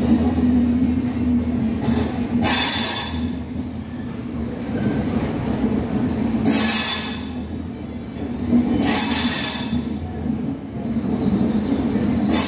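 Jan Shatabdi Express passenger coaches rolling slowly along the platform as the train arrives, with a steady low rumble. Three bursts of high wheel squealing come a few seconds apart, and a fourth starts near the end.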